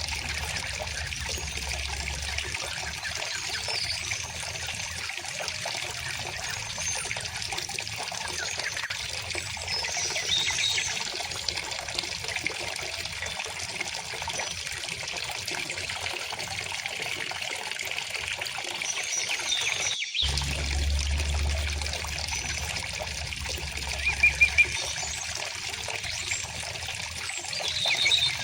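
River water flowing steadily, with small birds chirping and trilling now and then above it. The sound breaks off for a split second about two-thirds of the way through.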